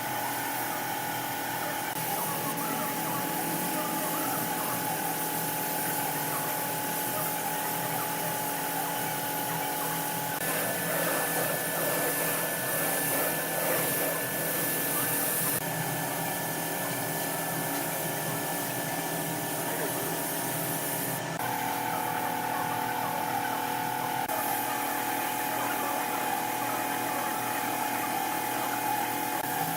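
A power tool's motor running steadily, its pitch shifting abruptly a few times.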